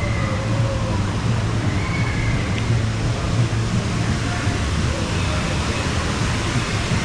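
Steady rushing noise of water-park water features with faint distant voices of people.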